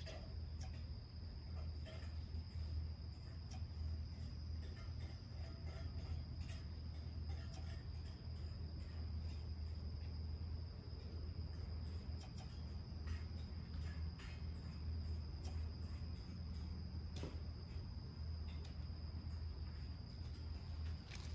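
Insects calling: a steady high trill with a faster pulsing chirp above it, over a steady low rumble. Faint scattered crackles from the small wood fire are also heard.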